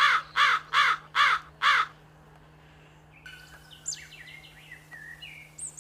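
Hooded crow cawing five times in quick succession, each a harsh, rasping call. After a second's pause, fainter high chirps and short whistles follow.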